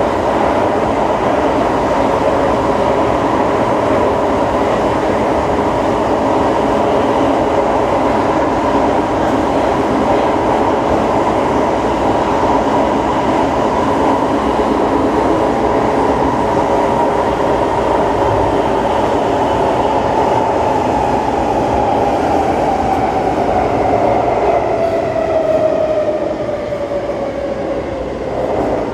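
Siemens C651 metro train running with the steady whine of its GTO-VVVF traction equipment over wheel and rail noise. In the last third the whine glides steadily down in pitch and the overall noise drops, as the train slows.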